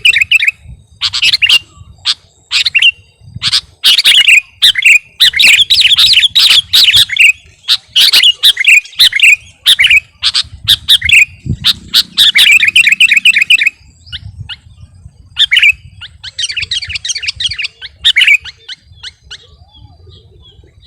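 A kutilang garuda, a sooty-headed bulbul, singing in full voice: fast runs of loud chattering chirps, packed tightly for most of the time, then thinning out to scattered calls near the end, with one quick higher-pitched chatter among them.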